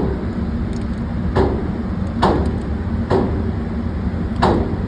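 Five gunshots fired at a target, about a second apart, each a sharp crack with a short echo. A steady low hum sits under them.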